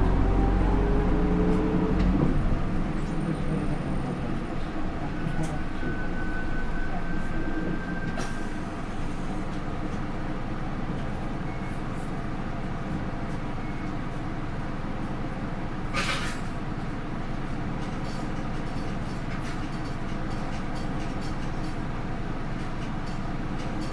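Interior running sound of a Hino Rainbow II bus with an Isuzu 4HK1-TCH four-cylinder turbo diesel and an Aisin automatic gearbox. The engine pulls with rising pitch, then drops about two seconds in as the gearbox shifts up, and the bus runs on steadily with road noise. A sharp click comes about two-thirds of the way through.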